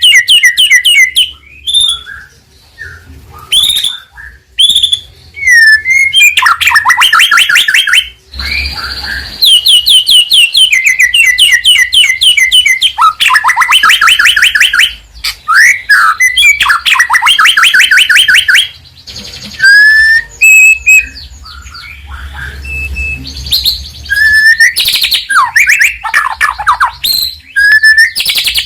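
White-rumped shama (murai batu) in full, varied song. Loud, fast trilling runs of repeated notes alternate with single whistled and sliding notes, broken by short pauses.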